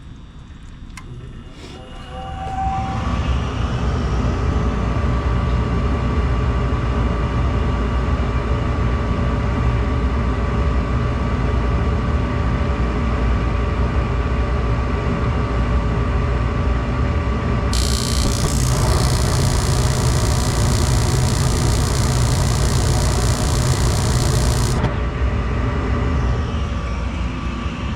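Gas furnace starting up on a test cycle: after a quiet couple of seconds it comes on suddenly and runs loud and steady with a deep rumble. A higher hiss joins for several seconds near the end.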